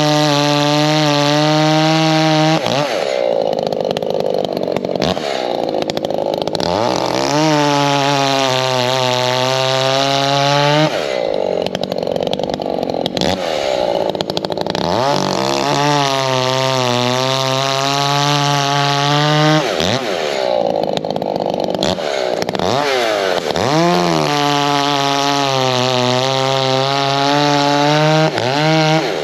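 Echo gas chainsaw bucking oak logs into rounds: four cuts of three to four seconds each at full throttle, the engine pitch sagging slightly under load. Between the cuts the throttle is eased off and blipped as the saw moves to the next cut.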